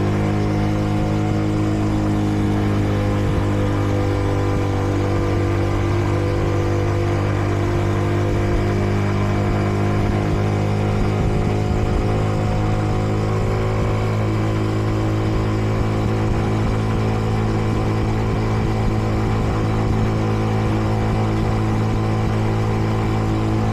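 Kreidler Dice CR 125 motorcycle's single-cylinder four-stroke engine running at a steady cruise. The pitch holds even throughout, with the engine kept at moderate revs during its break-in.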